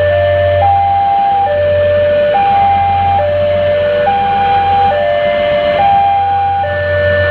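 Electronic two-tone warning alarm, a higher and a lower tone alternating about once a second, over a steady low hum.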